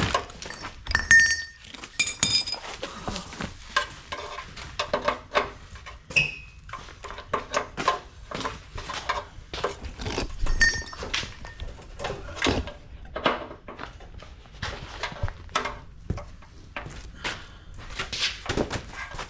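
Hand tools and loose exhaust parts clinking and knocking irregularly, with a few short ringing metal clanks, about a second in, two seconds in and about ten seconds in, as an exhaust system is worked free at its joint and rubber hangers.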